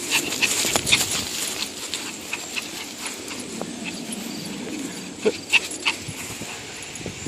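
A Chihuahua at play: scattered quick taps and clicks, with a few short high-pitched squeaks.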